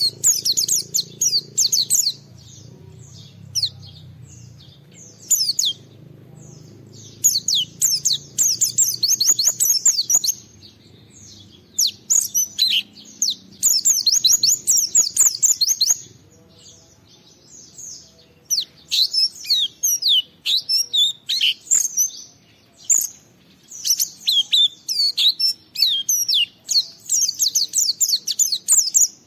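A pleci (white-eye) singing: long runs of rapid, high twittering chirps in bursts of one to three seconds, broken by short pauses.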